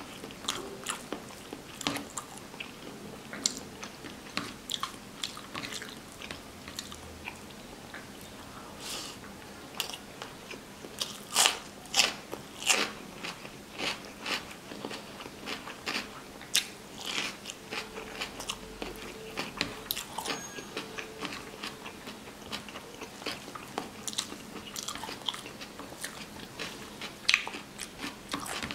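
Close-miked chewing and biting as a person eats rice and curry by hand. Irregular crisp crunching clicks run throughout, loudest about eleven to thirteen seconds in.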